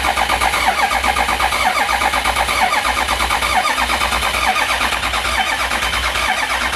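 Ford 6.0L Power Stroke V8 diesel turning over with a steady, fast, even pulse. It is being run for a fuel bowl bubble test, which checks whether a blown cylinder comes from a leaking injector seal.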